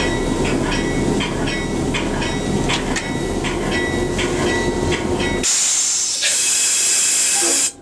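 A moving train rumbling, with regular clicks and squeals from the wheels on the rails about twice a second. About five and a half seconds in, the rumble gives way to a loud, steady air hiss, which stops abruptly near the end.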